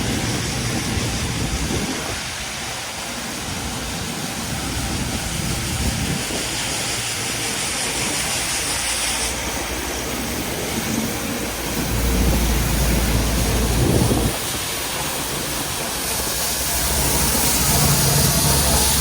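City street traffic in the snow: vehicles passing with a steady hiss of tyres and a low engine rumble. The rumble grows louder about twelve seconds in and again near the end.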